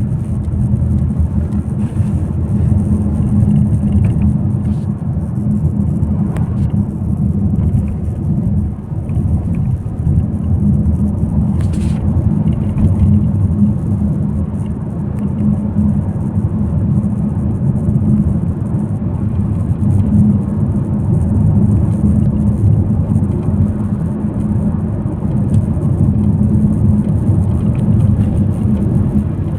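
Steady, loud low rumble of a moving vehicle.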